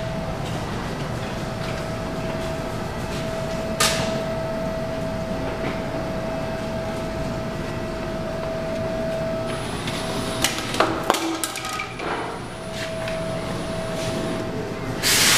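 Steady background noise with a constant hum, broken by a sharp knock about four seconds in and a brief cluster of knocks and clicks about two-thirds of the way through.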